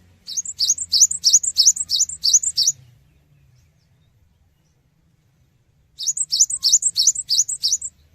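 Cinereous tit (gelatik batu) singing: two quick runs of repeated high, upward-sliding notes, about five a second, each run lasting about two seconds, separated by a pause of about three seconds.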